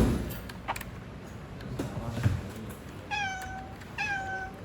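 A cat meows twice, short high-pitched meows about a second apart in the second half, each dropping slightly in pitch. A few faint knocks come before them.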